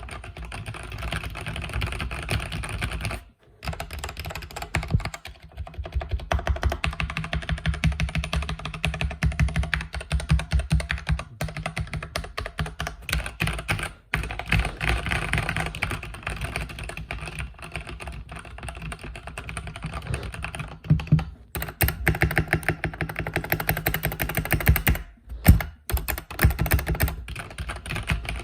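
Rapid continuous typing on a mechanical keyboard with red switches, a dense stream of key clacks broken by a few short pauses.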